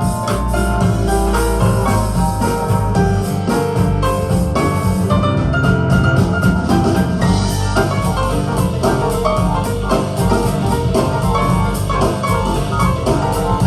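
Instrumental music with drums, keyboard-like melody notes and a strong bass line, played through Tannoy Platinum B6 speakers with a subwoofer.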